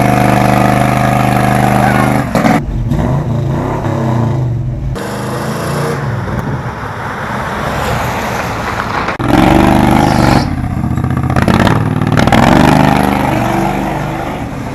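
A motor vehicle's engine running, steady at first, then with its pitch rising and falling as it revs. The sound breaks off abruptly a few times.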